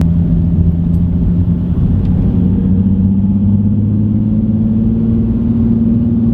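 Nissan 370Z's 3.7-litre V6 engine and exhaust running steadily while driving, its pitch climbing slowly as the car gently gathers speed.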